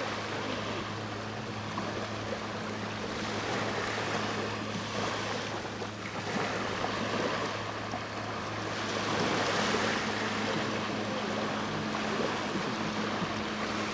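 Sea waves washing onto the shore, swelling several times, over a steady low hum from a boat engine.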